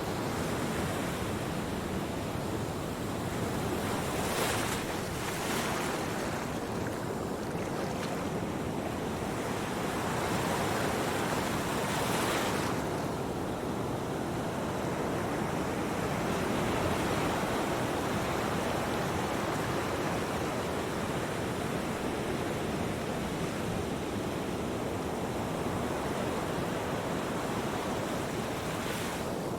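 Steady rushing noise, like surf, with a few brief louder swells around four to six seconds in and again near twelve seconds.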